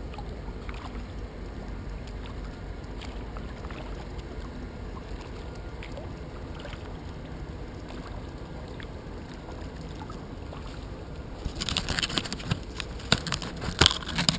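A kayak out on open water: a steady low rush of wind and water against the boat. About three seconds from the end, louder splashing and scraping starts, with a few sharp knocks.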